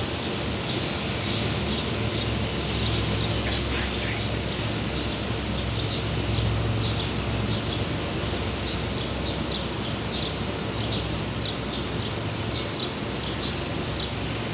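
Double-stack container cars of an intermodal freight train rolling over an elevated railway bridge: a steady low rumble, with short high-pitched chirps repeating throughout.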